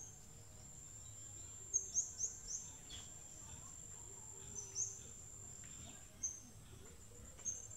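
Birds chirping faintly in short, high notes, in small clusters over a few seconds, over a steady high-pitched tone.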